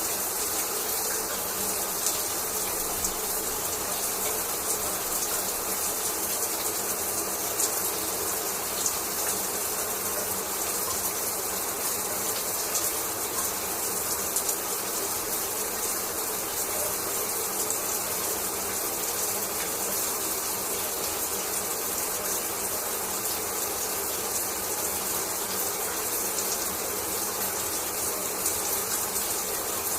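Shower water spraying steadily, an even hiss of falling water with a faint patter of droplets.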